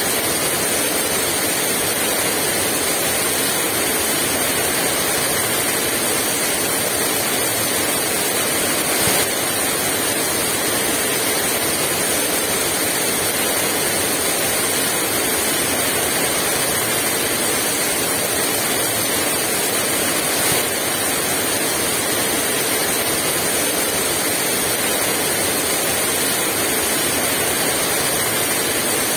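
Heavy rain falling steadily without strong wind: a dense, even hiss, with two brief slightly louder moments about nine and twenty seconds in.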